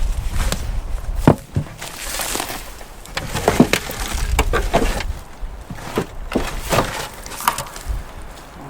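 Dry wood and debris cracking and snapping. There is one loud crack a little over a second in, then a run of smaller snaps and crackles.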